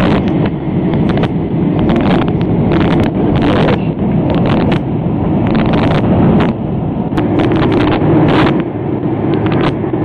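Loud, steady roar of airliner cabin and engine noise in flight, cut through by many sharp irregular crackles and ticks.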